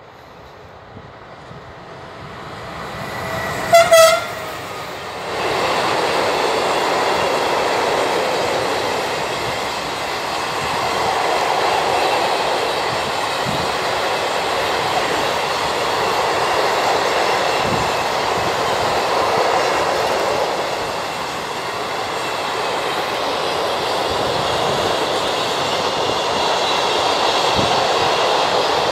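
SNCF BB 27000-class electric locomotive approaching and giving a short horn blast about four seconds in. It then passes close, followed by a long train of double-deck car-carrier wagons running by steadily, with a few faint low thumps from the wheels.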